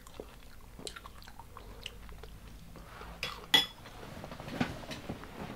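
Close-up chewing and biting of deep-fried, hot-Cheeto-crusted seafood, with small clicks of tableware. About three and a half seconds in comes one sharp, ringing clink, the loudest sound.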